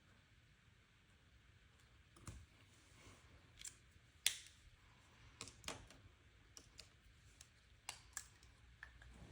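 Faint, scattered small clicks and taps, about eight of them at uneven intervals with the sharpest about four seconds in, from handling paper planner supplies such as stickers, paper and pen caps.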